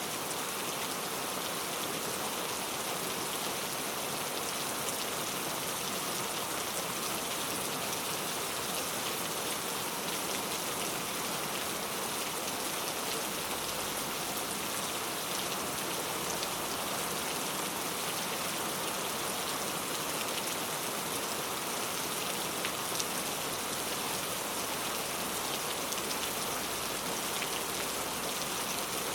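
Steady rain falling, an even hiss of many drops with fine scattered ticks and no let-up.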